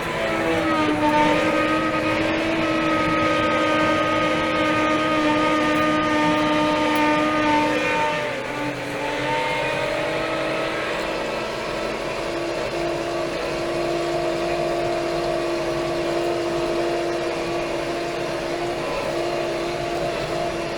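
Steyr 4075 Kompakt tractor's 75 hp four-cylinder Fiat Powertrain diesel running steadily at working revs. About eight seconds in, its note dips and drops a little in loudness, then settles again at a steady pitch.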